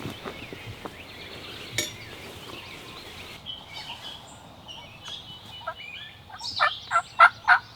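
Turkey yelping: a run of about six loud, evenly spaced notes near the end, roughly three a second. Small birds chirp faintly before it.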